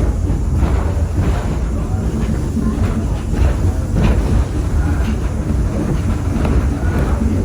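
Passenger train in motion, heard from aboard a railroad car: a steady low rumble of wheels on the track with irregular clicks and rattles.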